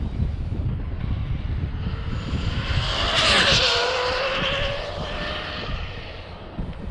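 Arrma Infraction RC truck's brushless electric motor whining at full throttle on a speed pass. The whine rises as the truck approaches, is loudest about three seconds in as it passes, then drops in pitch and fades. Gusty wind rumbles on the microphone throughout.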